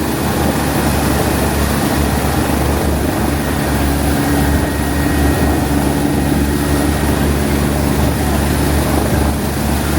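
A steady engine drone with a low hum running through it.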